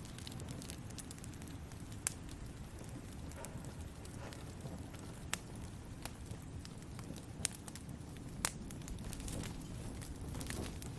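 Wood fire in a fireplace crackling: a steady low rumble of burning with a handful of sharp, irregular pops.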